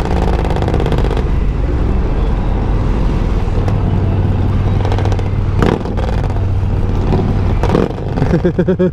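Motorcycle engine running under a rider's helmet microphone, with heavy wind noise from riding; the engine note holds steady from about a third of the way in.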